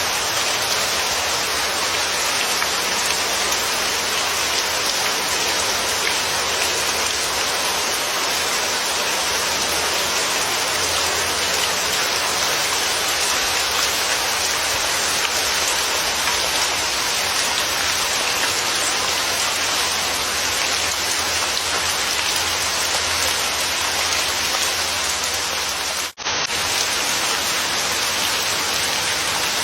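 Steady rain falling, an even hiss of drops with no thunder. The sound drops out for a split second near the end, at an edit in the recording.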